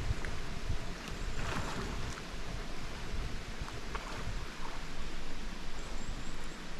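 Steady rush of flowing water in a mountain stream, with a few faint splashes and ticks.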